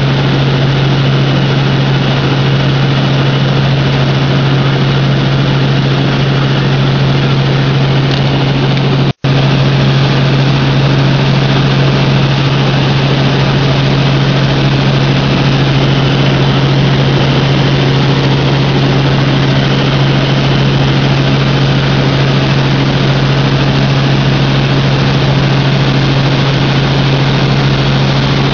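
Helicopter in flight, its engine and rotor giving a loud, steady drone with a strong low hum, heard from inside the cabin. The sound cuts out for an instant about nine seconds in.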